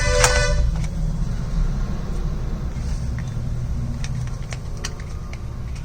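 A short horn-like toot lasting about a second at the start, over a steady low rumble like road traffic, with a few light clicks scattered through.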